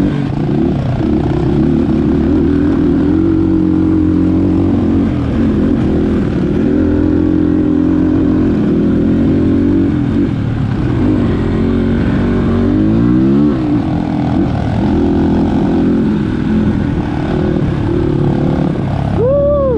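Dirt bike engine running under constantly changing throttle, with a sharp rev-up about two-thirds of the way through.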